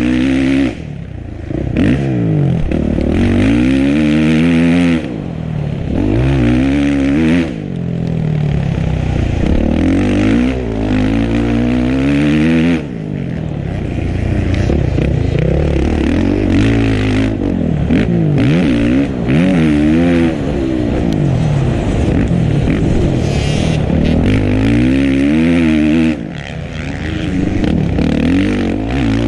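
Dirt bike engine being ridden hard, revving up and dropping off over and over, its pitch rising and falling every second or two with brief dips in between.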